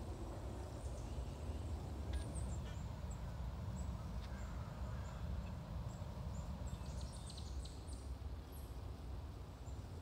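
Faint, high, thin bird chirps: short downward notes scattered through, clustering about seven seconds in, over a steady low rumble on the phone's microphone.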